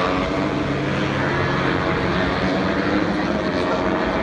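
Aircraft engine drone, a steady hum of several tones over a rushing noise that holds an even level.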